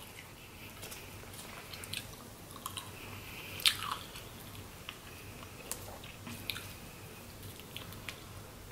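Close-miked chewing and biting of crab legs and shrimp, with irregular wet mouth clicks and smacks. The loudest is a little over three and a half seconds in.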